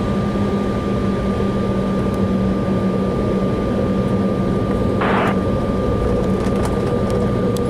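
Steady cabin noise of an Embraer E190 airliner holding on the runway, its GE CF34 turbofans running at idle, with a constant low hum and a thin steady tone. A brief burst of radio noise about five seconds in.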